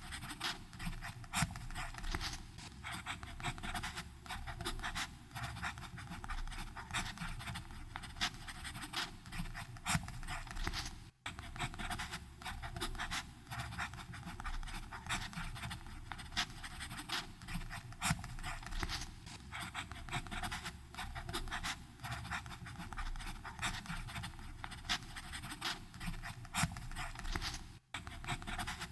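Fountain pen nib scratching across paper in quick, continuous writing strokes. There are two very short breaks, about a third of the way in and near the end.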